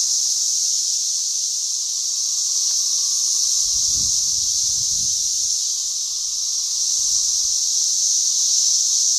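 A dense chorus of 13-year periodical cicadas: a steady, loud, high-pitched whine that does not let up. A brief low rumble comes about four seconds in.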